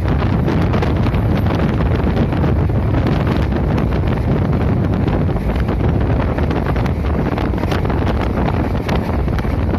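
Passenger train running along the track, a steady loud rumble with heavy wind buffeting the microphone.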